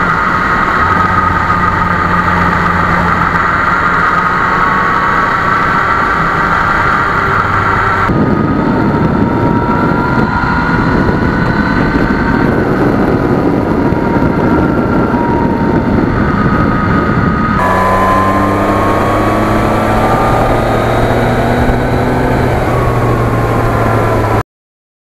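Yamaha MT-09's three-cylinder engine running on the move under a steady rush of noise, its pitch slowly rising and falling. The sound is in three pieces, with abrupt cuts about eight and eighteen seconds in.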